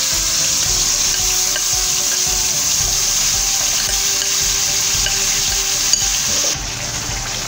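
Yogurt-marinated chicken sizzling loudly in hot oil in a karahi, a steady frying hiss that drops away abruptly about six and a half seconds in.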